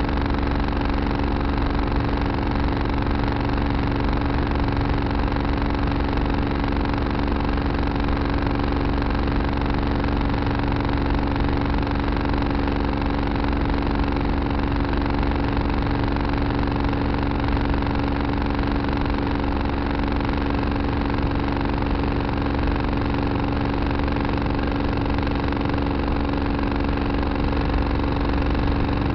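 Tractor engine running at a steady speed, a constant drone with no change in pitch or level.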